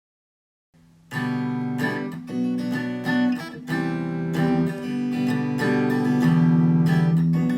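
Acoustic guitar strumming chords as the intro to a song, starting about a second in after silence.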